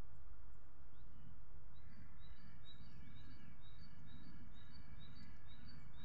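Steady low outdoor rumble, and from about two seconds in a small bird singing a quick, high two-note phrase over and over, about two notes a second.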